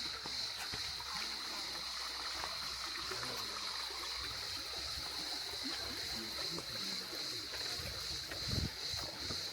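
Water flowing and splashing, like a stream, under a steady high-pitched hiss, with a low thump near the end.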